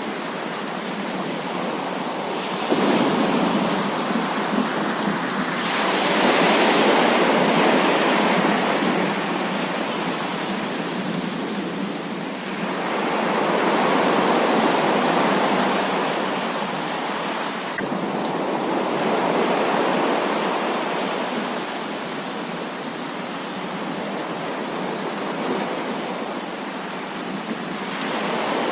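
Heavy rain falling in a dense, steady hiss, swelling louder every few seconds as thunder rolls through.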